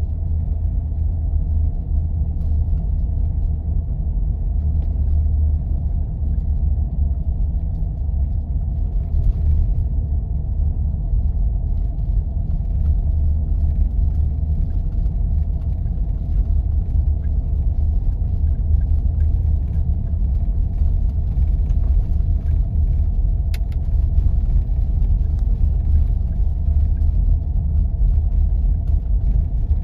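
Steady low rumble of a 4x4 vehicle driving on snow-covered roads: engine and tyre noise that holds even throughout.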